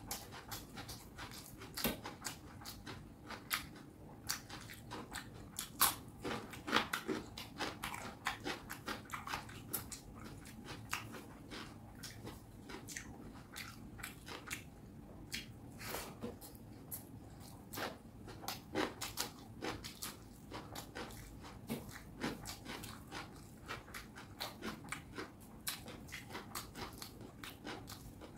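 Close-up chewing of fish curry and rice: wet mouth clicks and lip smacks, several a second.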